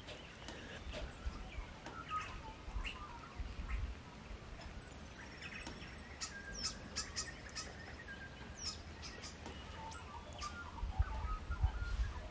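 Wild birds calling: many short high chirps and quick downward-sliding whistles, over a faint low rumble.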